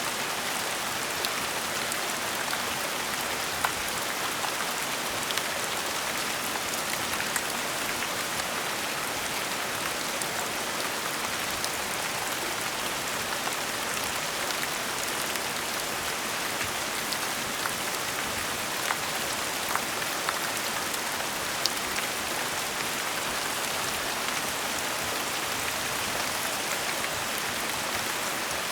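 Steady gentle rain: an even hiss of falling rain with scattered individual drops ticking on a surface.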